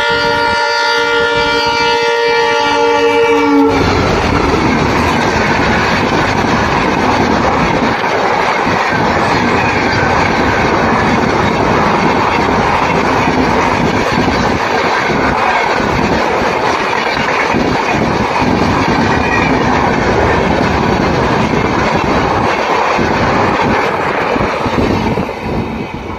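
Train horn sounding one long, steady, multi-tone blast that cuts off about four seconds in. A train then passes close by, its wheels clattering in a steady loud rush that fades near the end.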